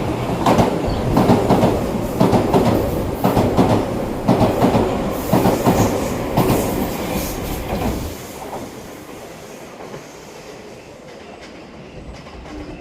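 A Tobu Railway limited express train passing through a station without stopping, its wheels clattering rapidly over the rail joints. The sound dies away about eight seconds in as the train leaves.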